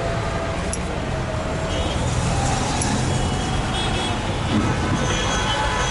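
Busy street traffic noise: vehicle engines running with a steady low rumble.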